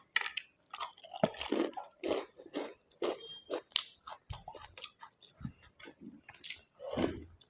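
Close-up chewing and wet mouth sounds of a person eating a rice-and-curry meal, in short irregular bursts with some crunching.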